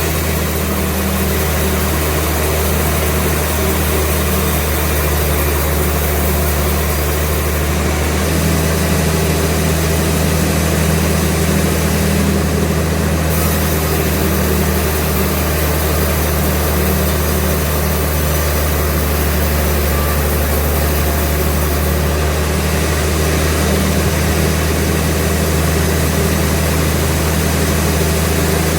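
Sawmill engine running steadily with a deep, unchanging hum.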